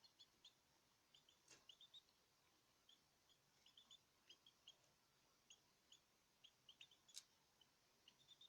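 Small cage birds giving many short, high chirps, scattered and irregular, with two sharp clicks, one about a second and a half in and a louder one about seven seconds in.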